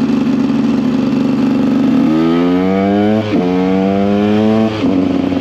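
KTM EXC 125's two-stroke single-cylinder engine running steadily, then revving up with rising pitch about two seconds in, dipping briefly, climbing again, and dropping back to a low steady note near the end as the throttle closes.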